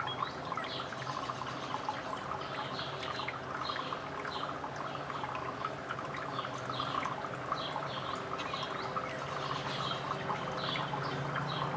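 Small birds chirping over and over, with a dense crackly chatter and a steady low hum underneath.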